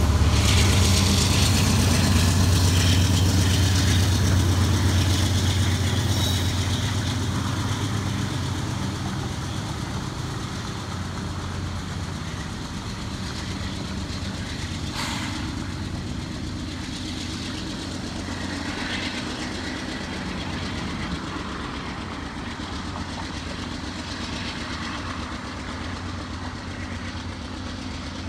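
Train with its diesel locomotive engine running, a low steady hum that is loudest over the first several seconds and then fades gradually. A single short, sharp metallic sound comes about fifteen seconds in.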